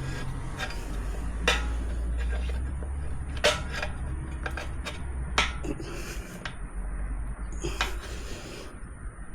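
Metal tire irons clinking and scraping against a motorcycle wheel rim while prying at the tire bead, with sharp clinks about every two seconds. A steady low hum runs underneath.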